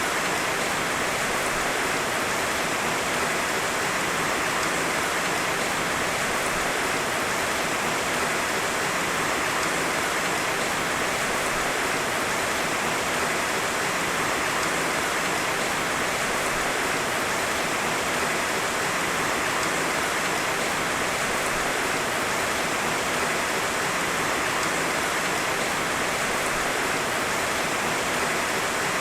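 Heavy rain falling steadily: a dense, even hiss of rain with no thunder and no single drops standing out.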